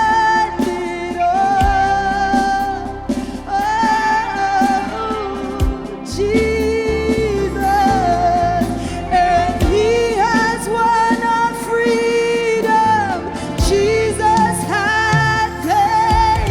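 Live gospel praise and worship song: sung vocals, with a female voice prominent, over a steady band accompaniment with drums.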